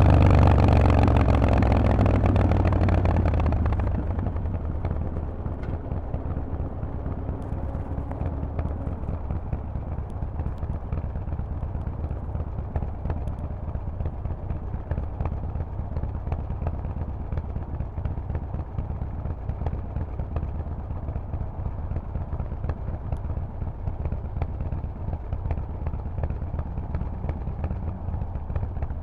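Harley-Davidson Forty-Eight's air-cooled V-twin through a loud Vance & Hines exhaust, dropping in revs and level over the first four seconds, then running steadily at a low, even idle.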